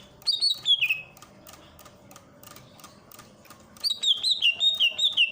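Cucak ijo (green leafbird) singing: a few descending whistled notes, a pause of about three seconds, then a quick run of notes stepping up and down. Faint, sharp clicks sound throughout.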